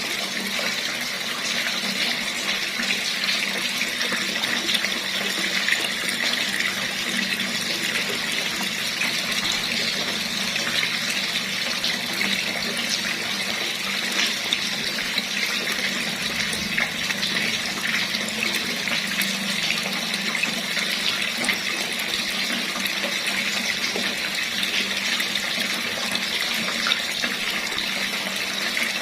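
Water running steadily from a tap, a constant even splashing rush.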